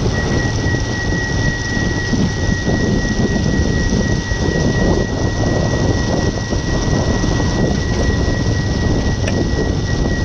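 Steady rumbling road and wind noise from a moving vehicle, with a thin, high, steady whine above it.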